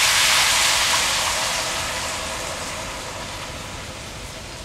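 Hot oil and seared chicken thighs sizzling in a pot as sauce is poured over them, the sizzle dying away steadily as the liquid covers the meat.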